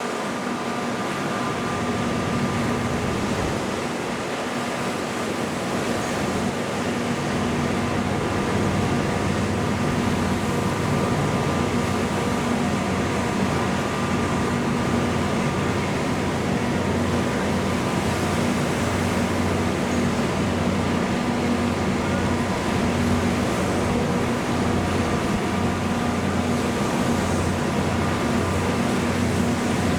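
Steady drone of running marine engines with a constant hum over it, getting slightly louder about eight seconds in.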